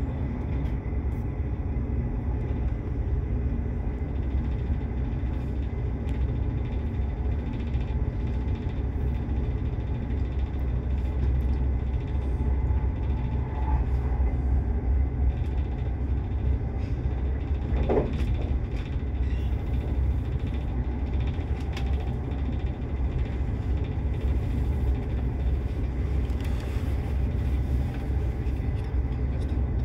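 Steady low rumble of a passenger train running at speed, heard from inside the carriage, with one short squeak a little past halfway through.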